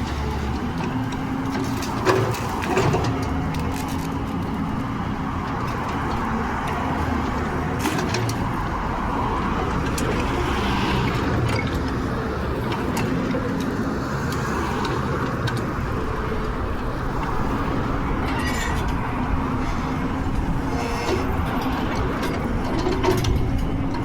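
A motor vehicle's engine running steadily under a noisy hiss, with a couple of brief knocks about two seconds in.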